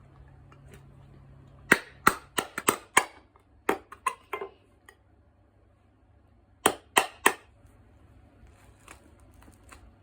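Sharp knocks and clicks, about nine in quick succession, then three more a couple of seconds later.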